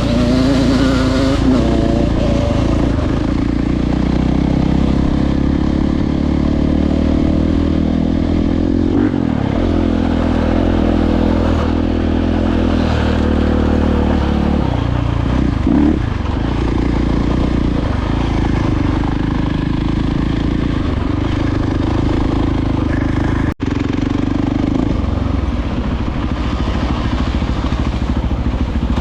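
Dirt bike engine running on a trail ride, its pitch rising and falling with the throttle. The sound drops out for an instant about three-quarters of the way through.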